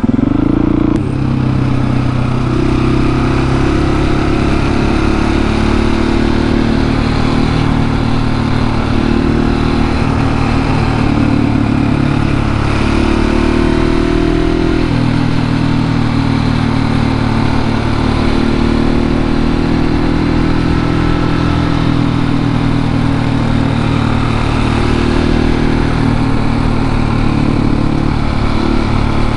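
701 supermoto's single-cylinder engine pulling steadily while riding, its note shifting up and down a little around the middle as the throttle changes, with wind rushing past the helmet-mounted microphone.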